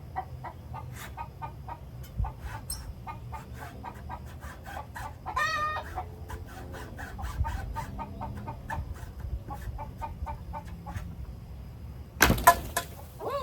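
Chickens clucking in quick short clucks, with one longer, wavering call about five and a half seconds in. Near the end comes a single loud knock, the loudest sound here.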